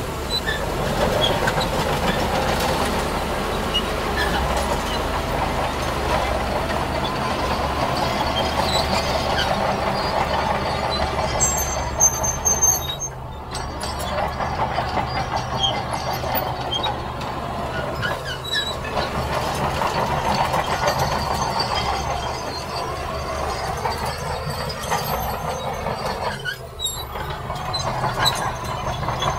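Heavy earthmoving machinery at work: diesel engines running steadily under load, dipping briefly in level about halfway through and again near the end.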